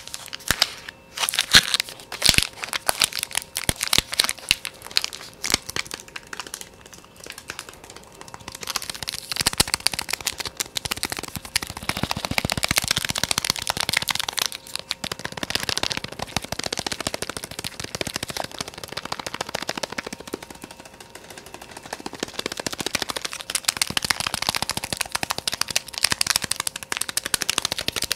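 Fast ASMR tapping: separate sharp taps at first, then from about eight seconds in a dense, rapid flurry of clicking taps. The flurry eases briefly about two-thirds of the way through, then picks up again.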